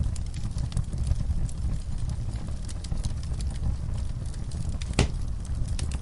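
Wood fire burning in a fireplace: a steady low rumble of flames with scattered crackles and snaps from the logs, and one louder pop about five seconds in.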